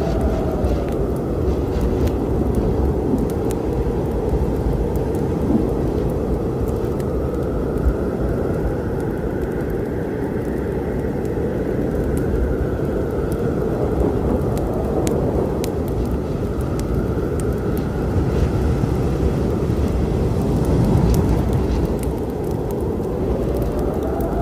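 Wood fire crackling with sparse sharp pops over the steady low rumble of a storm. A faint whistling tone slowly rises and falls above the rumble.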